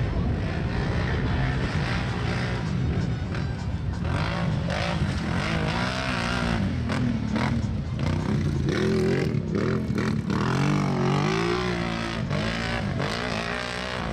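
ATV engines racing on a short dirt track, revving up and down over and over as the quads accelerate and back off.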